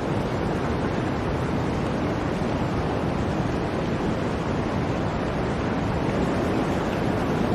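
Blizzard wind: a steady, dense rush of noise that does not rise or fall.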